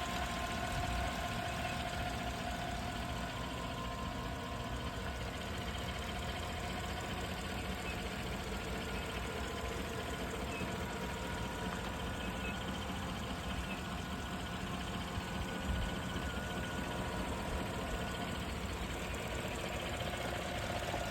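2014 Chevrolet Silverado Z71's engine idling steadily and smoothly, with a faint steady whine over the idle.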